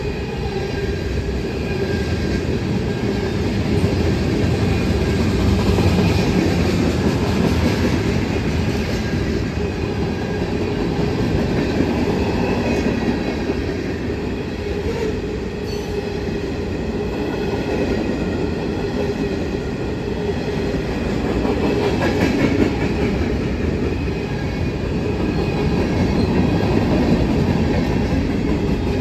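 Freight train's tank cars and covered hoppers rolling past close by: a steady, continuous noise of steel wheels running on the rails, swelling and easing slightly as the cars go by.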